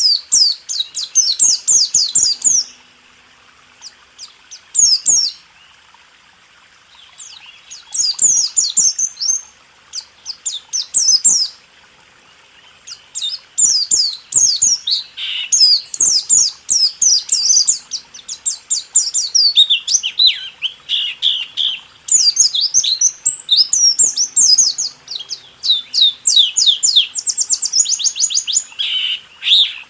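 White-eye (pleci) singing a fast, twittering song of quick, high chirps and trills. The song comes in bursts, with pauses about 3 to 7 seconds in and again around 11 to 13 seconds in, and then runs almost without a break through the second half.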